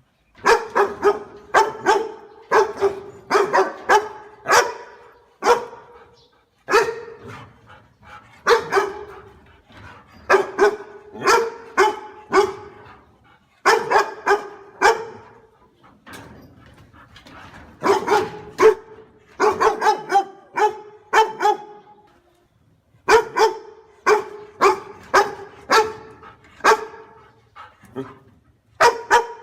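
A dog barking fiercely in quick runs of several loud barks, with short pauses between the runs.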